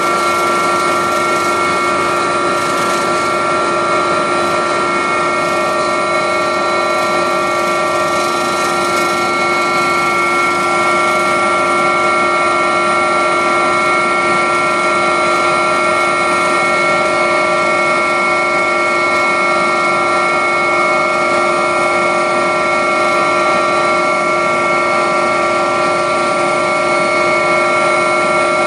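Agusta helicopter's turbine engines and rotors running steadily, heard from on board: a constant turbine whine with several steady tones over a loud rushing noise.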